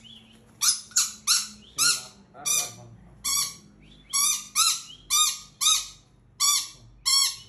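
Small bird giving repeated harsh squawks, nearly two a second, the distress calls of a bird held in the hand for treatment of a broken leg.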